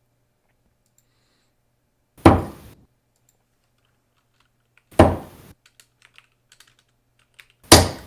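Three darts thudding into a dartboard one after another, about two and a half seconds apart: a player's three-dart turn. Each hit is sudden and fades within half a second.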